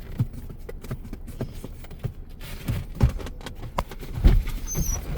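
Irregular taps, knocks and thumps of an excited cocker spaniel moving about, with a faint thin whine near the end.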